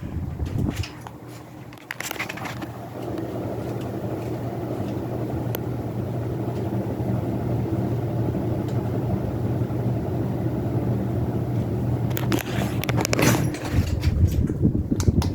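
Hunter Reverse-Aire Original ceiling fan running: a low motor hum with the rush of moving air, building steadily over several seconds as it gathers speed, with a few clicks and rattles near the end.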